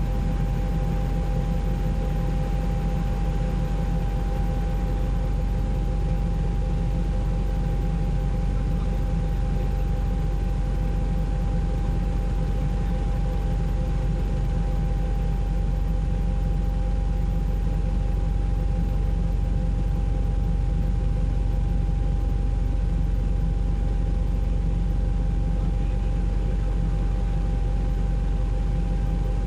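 Steady noise of a news helicopter heard from inside its cabin: a deep engine and rotor drone with a faint steady whine, unchanging throughout.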